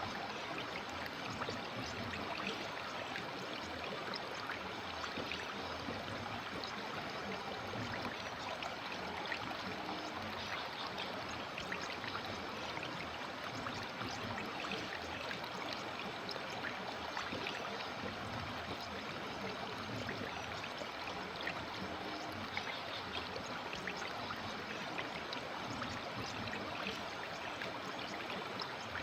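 River water flowing steadily, a continuous babbling rush with fine splashing flecks throughout.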